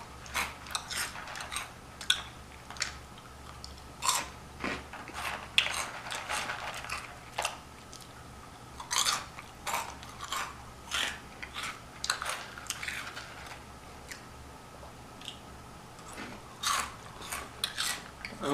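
Flaming Hot Cheetos crunched and chewed close to the microphone: a run of sharp, irregular crunches with short pauses between mouthfuls.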